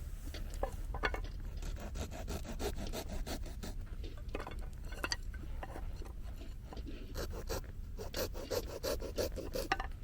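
Wood being cut by hand at a campsite: a rapid, irregular series of rasping scrapes on wood, growing busier near the end.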